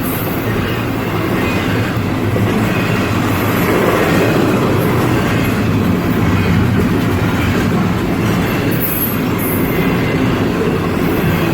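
A train rolling past, its wheels running over the rails in a loud, steady rumble.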